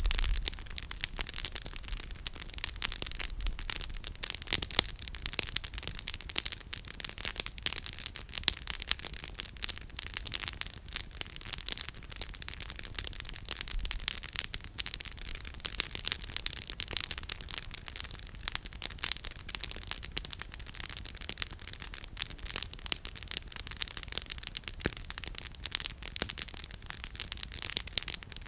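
Wood campfire crackling: a steady run of sharp snaps from the burning firewood, with a few louder pops, one about five seconds in and another about eleven seconds in.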